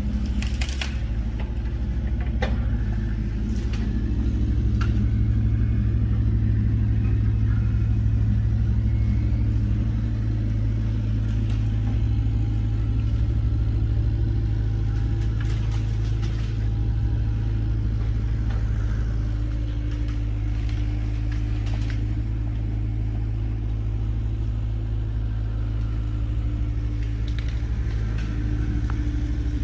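Old GMC logging truck engine running steadily, swelling a little louder a few seconds in, with occasional short knocks and rattles.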